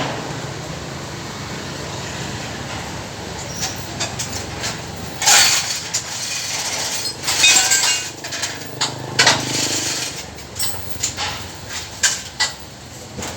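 Workshop noise: a steady low machine hum with irregular short bursts of hissing or scraping noise and sharp knocks, the loudest bursts about five and seven seconds in.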